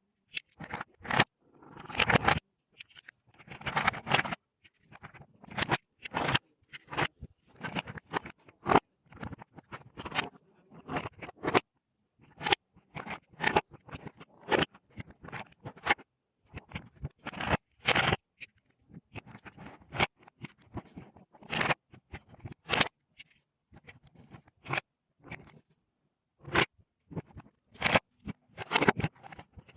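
Plastic Lego bricks being handled and snapped together: irregular sharp clicks and snaps, mixed with short scraping rustles of the pieces.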